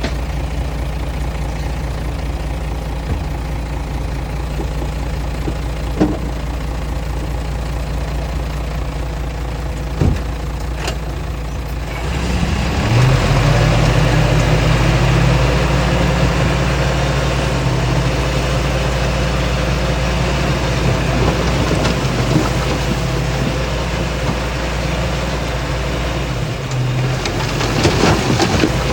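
Diesel engine of heavy earthmoving machinery running steadily, with two sharp knocks. About twelve seconds in it picks up to a louder, higher-revving note, then eases off near the end amid a few clanks.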